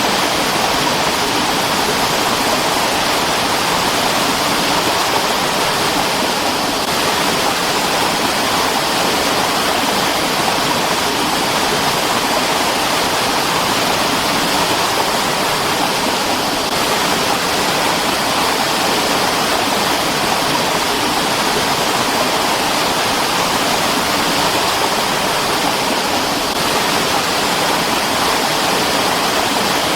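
Mountain stream rushing over rocks, a loud steady rush of water.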